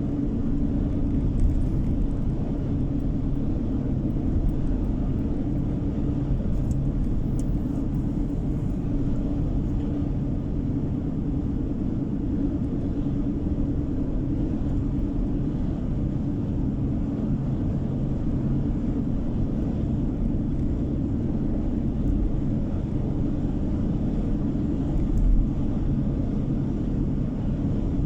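Steady low rumble of a car driving along, tyre and engine noise heard inside the cabin, with a brief louder bump about 25 seconds in.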